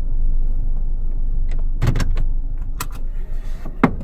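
Car in motion, a steady low rumble of road and engine noise heard from inside the vehicle, with a few sharp clicks and knocks midway and a louder knock near the end.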